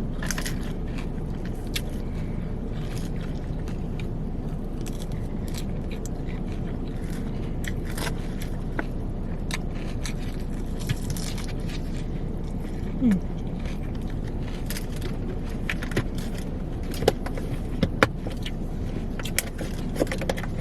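Steady low hum of a car running, heard from inside the cabin, with scattered light clicks and taps of eating from a takeout salad container, a few sharper ones near the end.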